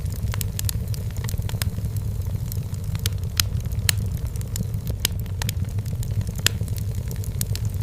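Firewood burning in a fireplace: frequent sharp crackles and pops at irregular intervals over a steady low rumble of the flames.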